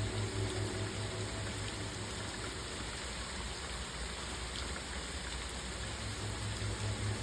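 Steady rain, an even hiss of drops. A pulsing low music note fades out in the first second and comes back near the end.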